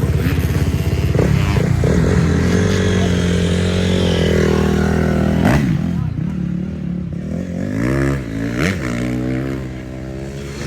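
Dirt bike engines revving hard, their pitch rising and falling with the throttle. The revving is loudest through the first half, and another rev climbs and drops near the end.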